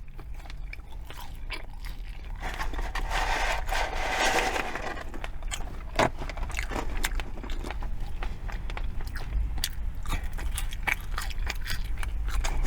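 Close-miked eating: biting and chewing food with wet mouth clicks and crunching. A denser, louder crunchy stretch comes about three to five seconds in, and a sharp click about six seconds in.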